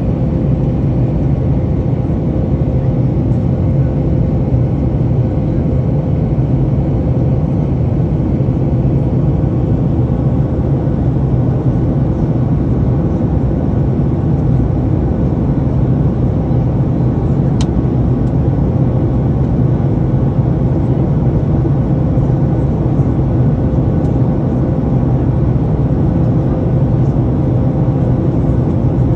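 Steady jet cabin noise inside a Boeing 737 MAX 8: a constant low drone of the engines and airflow, with a steady hum running through it, and a single click partway through.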